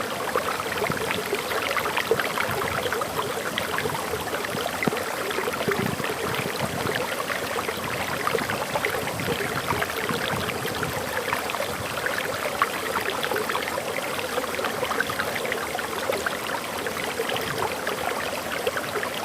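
Water pouring over a forest waterfall: a steady splashing, bubbling rush.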